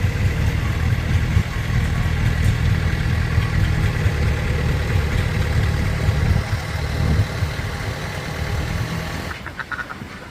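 A truck engine running steadily beneath the constant quacking of a large flock of ducks. The engine drops away about nine seconds in, leaving the ducks.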